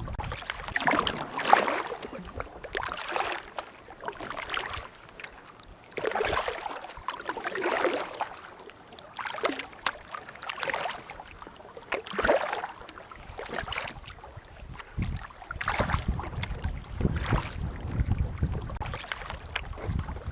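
Kayak paddle strokes dipping and splashing in the water, about one every one and a half to two seconds, with wind rumbling on the microphone at times.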